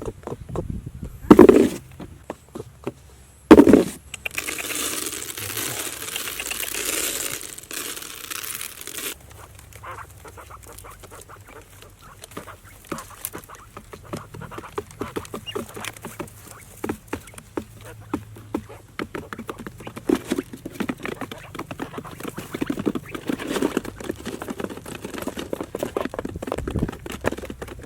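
Ducks quacking among rustling and many small clicks and taps, with two loud, sudden sounds in the first four seconds.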